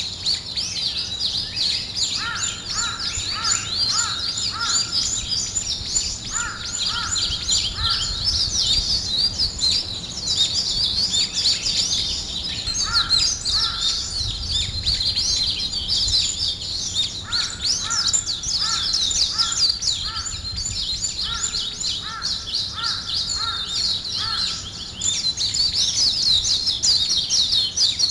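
Many small birds chirping and twittering at once in a dense, continuous chorus. A lower call sounds in runs of four or five evenly spaced notes, several times over.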